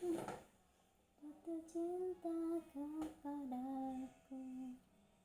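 A person humming a slow tune in a string of short held notes, with a brief noisy burst at the start and a click about three seconds in.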